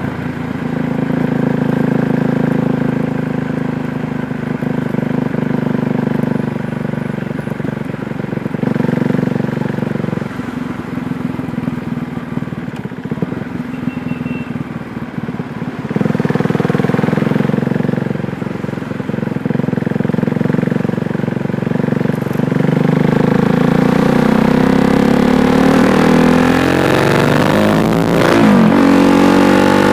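KTM Duke 390's single-cylinder engine running at a steady speed, then revving up from about two-thirds through. The revs dip briefly near the end and climb again.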